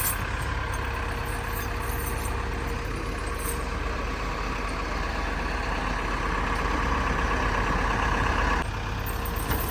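Diesel engine of a Caterpillar 914 compact wheel loader running steadily at idle. It builds slightly for a couple of seconds, then drops back suddenly near the end.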